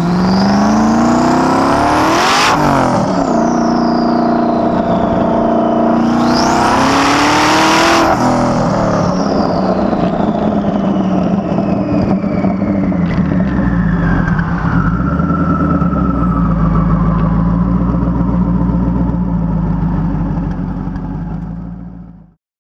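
Twin-turbocharged Ford GT V8 accelerating hard twice, its revs climbing and dropping back at a gear change, then running at steady revs while a high turbo whistle falls slowly. The sound fades out near the end.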